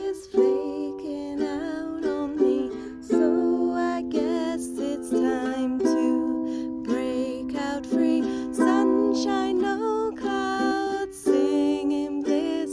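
Acoustic string instrument strummed in chords, a steady repeating chord pattern with sharp strums every half-second or so and no singing.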